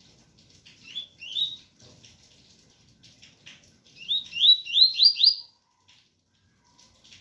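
Double-collared seedeater (coleiro) singing 'tui tui' song: two rising notes about a second in, then a quick run of five rising notes around four to five seconds in. Under it is the patter of rain.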